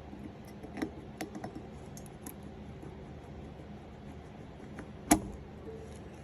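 Light clinks and taps as glass power valves are pulled from their sockets past their metal spring retaining clips and handled, with one louder sharp click about five seconds in.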